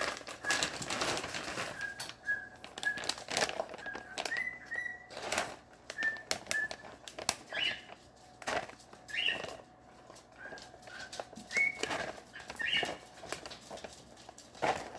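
A pet parrot whistling a string of short, clear notes, some flicking upward in pitch. Plastic bags rustle and crinkle as they are handled.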